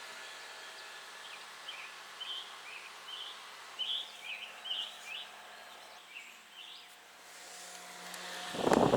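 Small birds chirping in short, irregular calls over a faint steady background hum. Near the end a loud rushing noise swells up and covers them.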